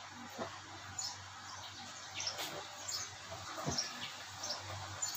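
Small birds chirping in short high calls, about one a second.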